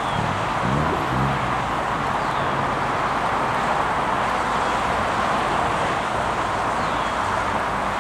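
Steady rushing vehicle noise. A brief engine note rises in pitch about a second in.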